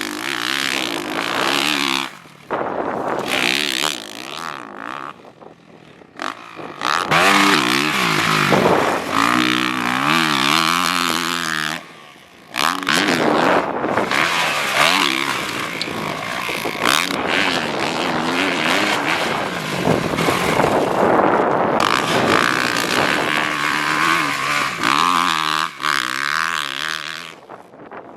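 Honda CRF450R four-stroke single-cylinder motocross engine revving hard and backing off over and over as the bike is ridden around a rough track. The pitch rises and falls with each throttle change, and the sound breaks off abruptly a few times.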